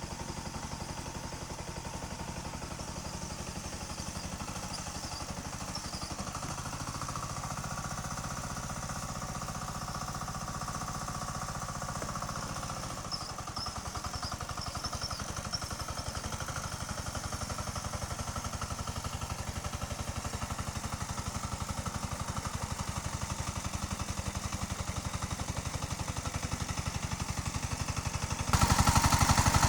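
Tractor engine running steadily with a fast, even pulsing beat, growing suddenly louder near the end.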